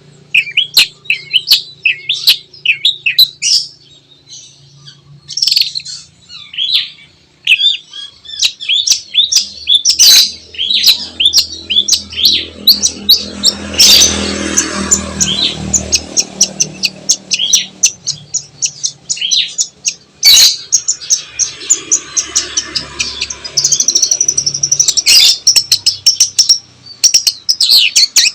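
Long-tailed shrike singing a fast, varied chattering song of rapid high chirps and sharp notes, with a harsh rasping stretch about halfway through.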